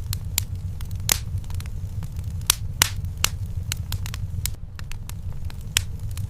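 Wood fire in a fireplace crackling: sharp pops and snaps at irregular intervals over a steady low rumble of the flames.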